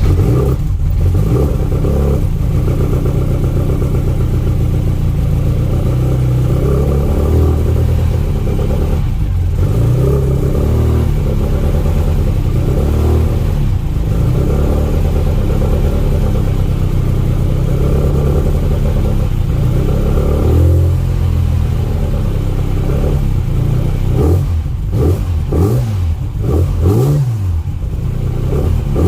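Classic Mini's 1380 cc four-cylinder A-series engine running just after a cold start, after standing for a week. The revs rise and fall unevenly throughout as it is kept going on the throttle, with several quick blips of the revs near the end.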